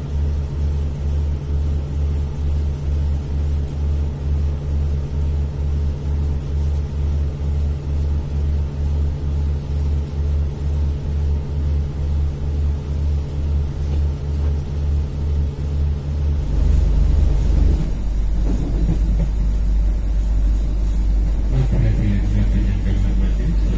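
Running noise of a commuter train heard from inside the carriage: a steady low rumble with an even low pulse about twice a second. About two-thirds of the way through, the sound changes to a heavier, continuous rumble.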